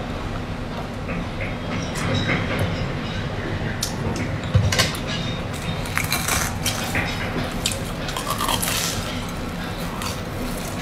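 Close-miked chewing and crunching of a crisp-crusted fried bread bun, with light clicks and crackles from handling it over a plate. There is one louder knock about halfway through.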